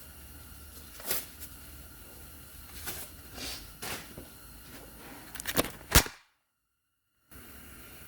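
A few short knocks and rustles of handling noise, ending in a sharp click about six seconds in, then about a second of dead silence.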